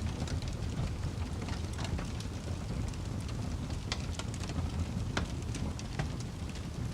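Campfire burning, with a steady low rumble of flames and scattered sharp crackles and pops from the burning wood.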